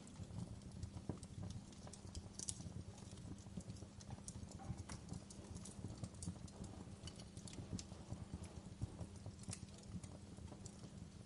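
Wood fire burning in a fireplace, crackling and popping in irregular snaps over a steady low rumble of the flames, with a sharper pop about two and a half seconds in.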